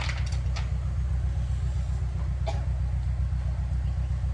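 Heavy diesel engine of construction machinery running steadily with a low, even throb. A short knock about two and a half seconds in.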